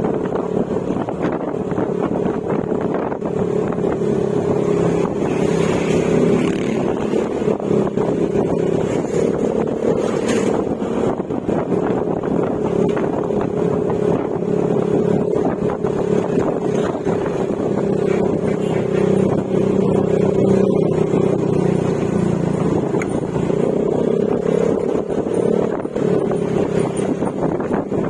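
Yamaha Mio Gravis scooter's 125 cc single-cylinder engine running at a steady cruise through an Akrapovic exhaust with silencer, its note wavering slightly in pitch with the throttle.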